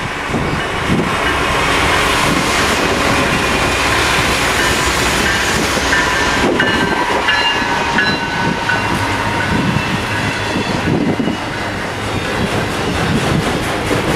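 A diesel-hauled freight train passes close by: the General Electric lead locomotive's engine goes by in the first seconds, then loaded autorack cars roll past with steady wheel clatter and repeated thumps as the trucks cross. A few short high wheel squeals come around the middle.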